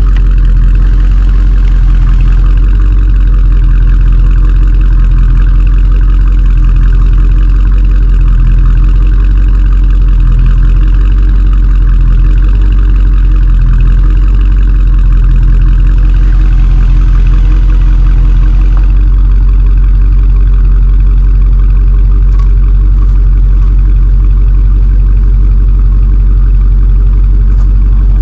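A vehicle engine idling steadily and loudly close by, with a slight change in its sound about two-thirds of the way through.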